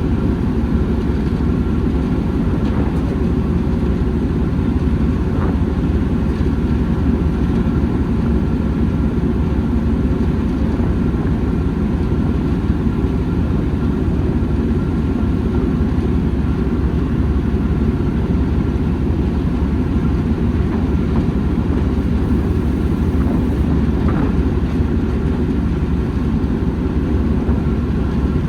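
Railway train running: a steady low rumble that stays even throughout.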